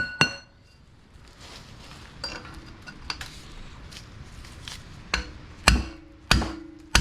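Hammer blows on metal, knocking the old axle seal and wheel bearing out of a GMC Yukon's rear axle housing. A few light clinks come first, then about four hard, ringing strikes roughly half a second apart near the end.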